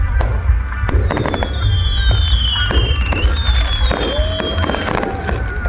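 Fireworks going off in many sharp bangs and crackles, with whistling shells gliding down in pitch for a couple of seconds in the middle and short rising whistles near the end, over a heavy low rumble.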